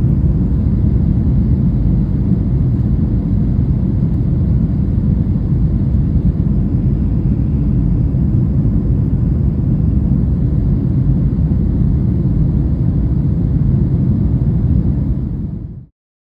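A loud, steady low rumble with no distinct tones or rhythm, cutting off abruptly near the end.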